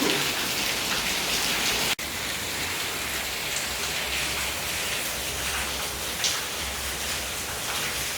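Steady rain falling, an even hiss of raindrops on surfaces, broken by a brief cut about two seconds in.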